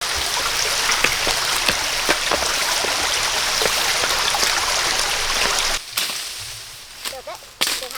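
Steady, dense hiss of water with many small splashes and drips, cutting off suddenly about six seconds in to a much quieter stretch with a few scattered clicks.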